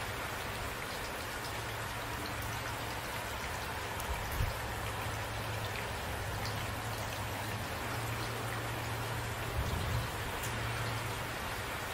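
Steady rain falling, a dense even hiss with scattered drop ticks, and two brief low thumps about four seconds in and near the end.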